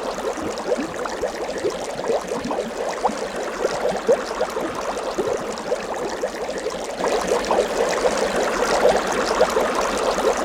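Water bubbling and trickling steadily, a dense patter of small gurgles.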